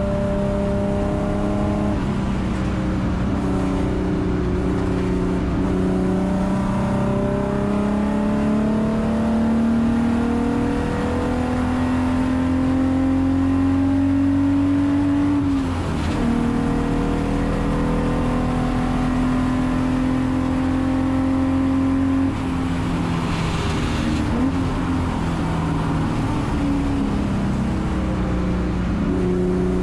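Alfa Romeo GTV6 race car's Busso V6 engine pulling hard through the gears, heard from inside the cabin. The pitch climbs steadily and drops suddenly at gear changes about halfway through and again a few seconds later.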